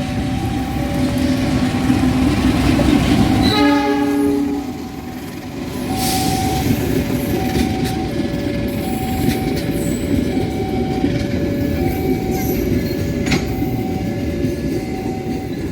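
Train rumbling past, with a short horn blast about four seconds in. Throughout it, a two-tone warning signal beeps, alternating between a higher and a lower pitch.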